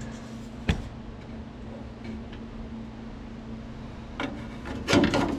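Handling noise of a loose sheet-metal patch panel being set back against a car door's outer skin: a sharp click about a second in, a few faint ticks, then scraping and rubbing near the end. A steady low hum runs underneath.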